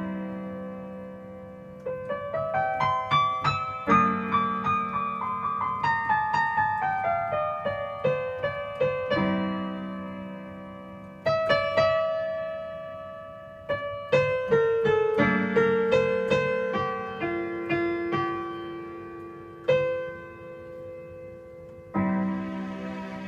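Solo piano music: single notes struck one after another in rising and falling runs, each left to ring and fade, over low chords struck afresh every few seconds.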